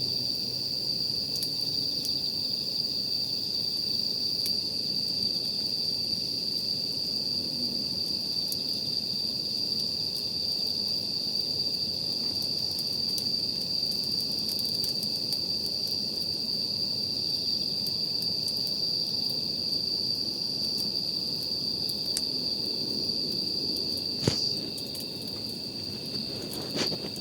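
Steady high-pitched chorus of crickets at night, with the faint scattered pops and crackles of a wood campfire. About 24 seconds in there is one sharper pop, and the sound gets a little quieter after it.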